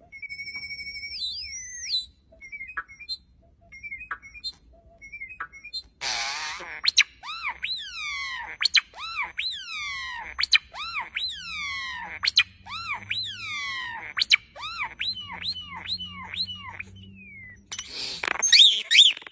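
A bird calling: a held whistle that glides upward, a few short notes, then a long run of loud whistled calls, each sweeping sharply down in pitch, about two a second, ending in a louder jumbled burst near the end.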